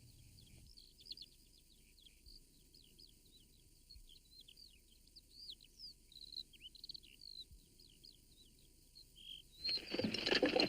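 Faint birdsong: many small birds chirping and twittering in quick short notes. Near the end a louder rough noise comes in for about a second and a half.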